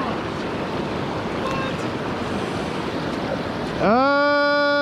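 Creek water rushing steadily over rocky shoals and rapids. Near the end a man's voice comes in with one long drawn-out vocal sound that rises and then holds, louder than the water.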